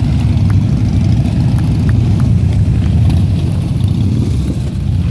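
Big motorcycle engines running with a loud, steady, low rumble.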